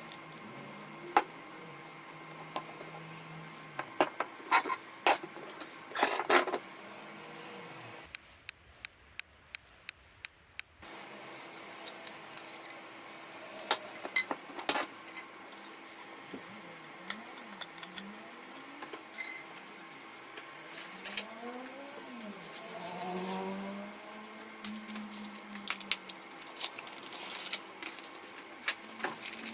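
Scattered clicks and knocks of plastic and metal printer parts being handled, over a steady faint hum. Partway through comes a short run of regular ticks, about four a second.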